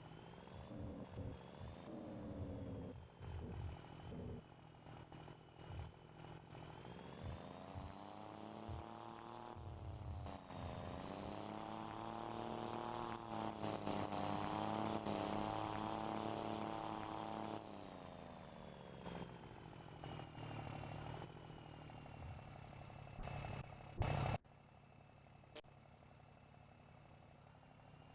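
Scania Super 540 truck engine with a straight-through exhaust, revving up in two long pulls with a brief dip between, then dropping back to a steady idle. Near the end a short, loud burst of noise cuts off sharply.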